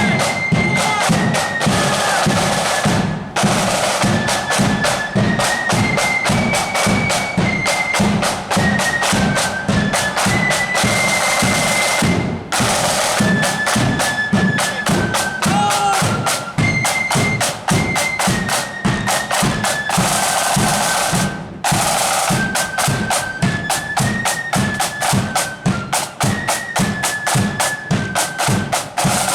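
Marching band playing a tune on high-pitched flutes over steady snare and bass drumming.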